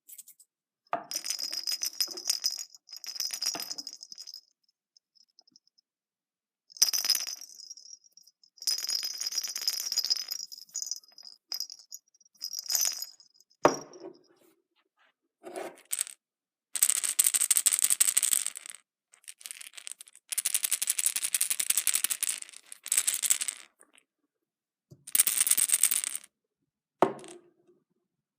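Surprise eggs being handled: repeated bursts of crinkling and rattling, each lasting up to a couple of seconds, with short quiet gaps between them.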